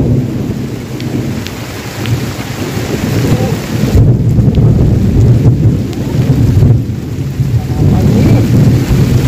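Heavy rain falling, with a loud low rumble that swells and fades throughout.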